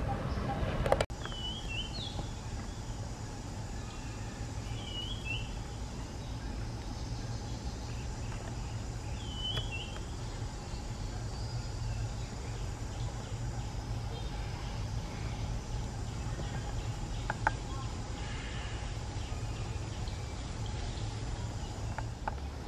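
Outdoor ambience with a steady low rumble, and a bird giving three short gliding chirps a few seconds apart in the first half.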